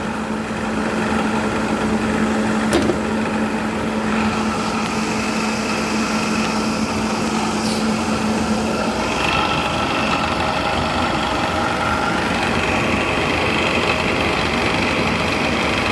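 LG 10,000 BTU window air conditioner running, its fan motor's once-seized bearings freed and oiled, driving a blower wheel fitted in place of a proper condenser fan. A steady whirring with a low hum that drops out about halfway through, after which a higher whine comes in.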